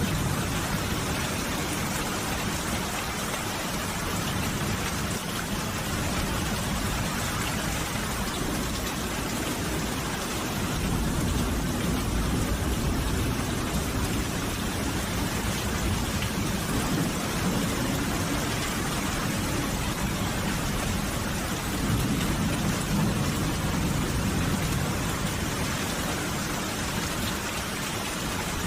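Steady heavy rain falling on a surface, an even hiss, with low rolls of thunder swelling up about a third of the way in and again about three quarters of the way through.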